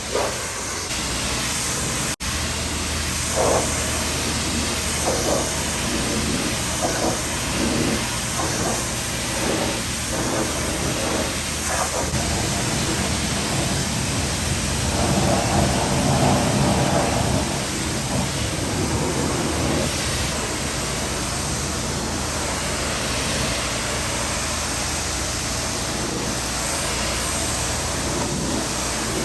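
A vehicle engine running steadily: a low drone under a haze of mechanical and road noise. It breaks off for an instant about two seconds in.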